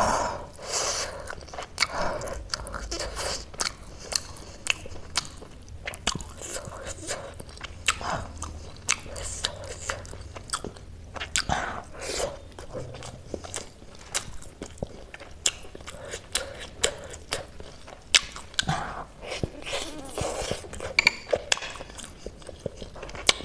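Close-miked biting and chewing of momo dumplings: many small, sharp mouth clicks throughout, with a few louder bites now and then.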